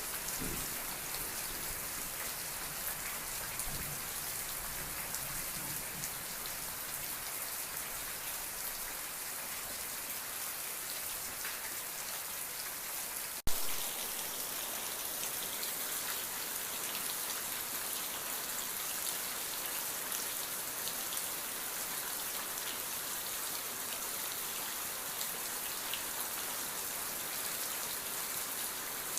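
Steady rain falling, an even, dense hiss of drops on a surface. One sharp click sounds about halfway through.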